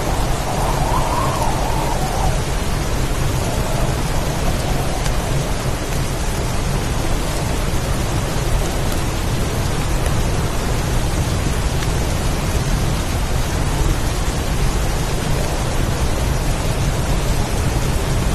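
Heavy storm rain, a steady unbroken downpour, with a constant low rumble underneath.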